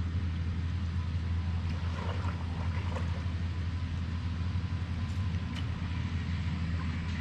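Lawnmower engine running steadily, a continuous low drone.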